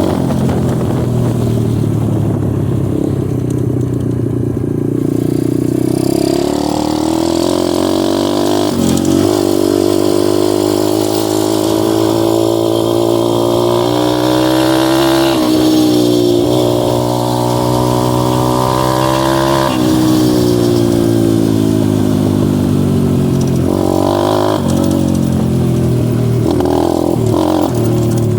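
Dirt bike engine running under way, its pitch climbing with the revs, dropping briefly about 15 seconds in, climbing again, then easing off.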